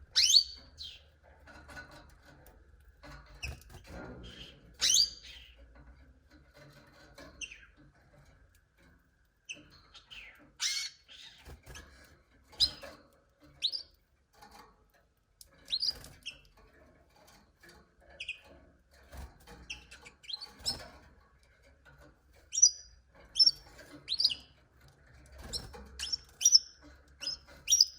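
Canaries giving short, separate chirps and calls, scattered rather than a continuous song, some quite loud and high, coming thicker near the end. A few faint clicks sound between the calls.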